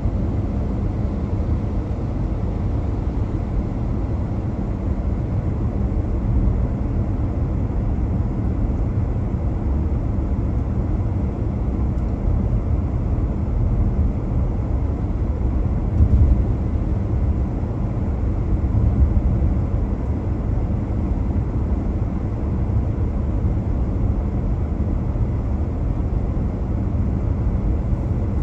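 Car driving on snowy city streets: a steady low rumble of engine and tyre noise, with a faint steady hum in it and a brief louder bump about halfway through.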